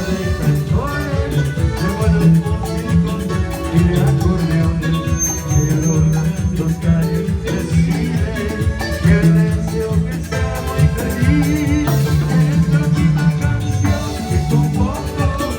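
Live band playing up-tempo Latin dance music with guitar and a steady drum beat.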